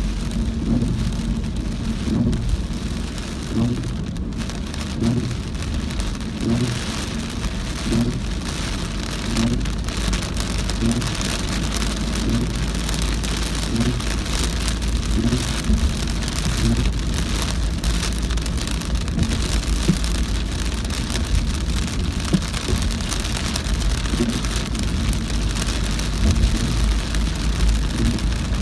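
Heavy rain pelting a car driven through a downpour, over a steady low rumble of engine and wet tyres, with a regular low beat about once a second.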